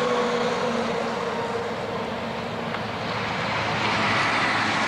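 Road traffic passing on an interstate highway: a steady rush of tyre and engine noise, with an engine tone that slowly falls as a vehicle goes by.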